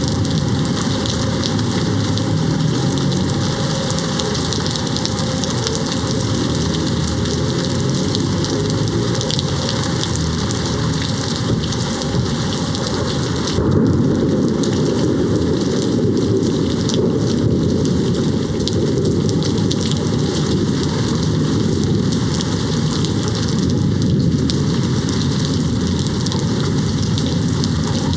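Steady heavy rain hitting a window, an even hiss of drops. About halfway through, a low rumble of distant thunder swells under the rain for several seconds.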